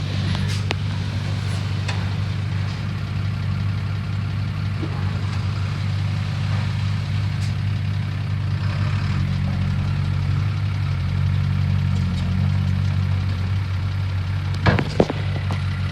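Diesel engine of heavy earthmoving machinery running steadily at low speed, near idle, with a couple of brief clacks near the end.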